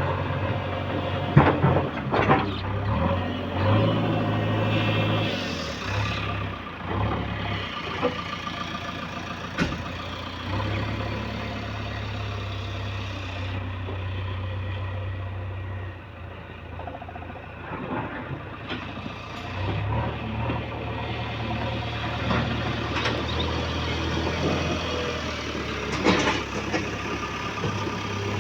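Heavy diesel engine running, its speed stepping up and down a few times, with scattered clanks and knocks.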